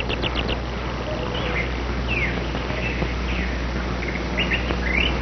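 Birdsong: a fast trill of high repeated notes that ends just after the start, then scattered short chirps and slurred whistles, over a steady low hum.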